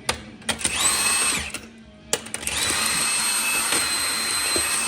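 A power tool spinning bolts out of the engine as the cylinder head is taken off, in two runs: a short one, then a longer one. Each run spins up to a steady high whine with a hiss and winds down at the end.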